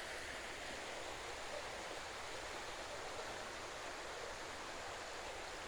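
Steady, even rush of a small creek flowing beneath a stone railroad culvert.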